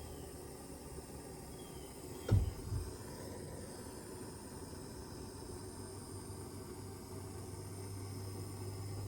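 A dull low thud about two seconds in, followed half a second later by a smaller one, over steady faint background noise and a low hum that comes in near the end.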